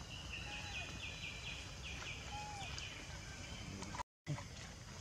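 A bird calling a quick run of about eight repeated high notes, a few a second, with two fainter lower whistles, over a steady low rumble of outdoor background noise. The sound cuts out completely for a moment near the end.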